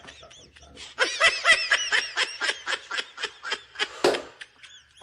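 A person laughing in a quick run of short giggles, several a second, for about three seconds, ending in a louder burst.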